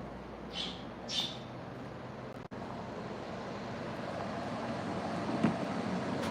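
Two short, high bird chirps, about half a second and a second in, over a steady background noise of the traffic kind that runs on after an abrupt break about two and a half seconds in.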